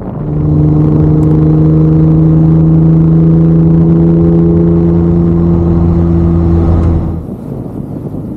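Classic sports car's engine heard from inside the cabin, running at steady revs with one even, unchanging note. About seven seconds in it stops suddenly, leaving wind rushing over the microphone.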